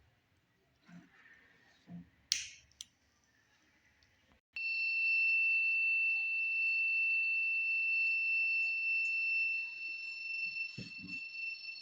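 Gas-leak alarm buzzer sounding a steady, high-pitched continuous tone that starts about four and a half seconds in, set off by the LPG sensor detecting gas. A short hiss comes just before it, and a couple of low knocks near the end.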